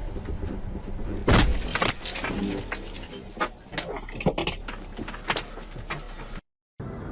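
A car collision: one loud bang about a second in, then a scatter of sharp metallic knocks and clattering over a steady background of road noise. The sound cuts off near the end and gives way to music.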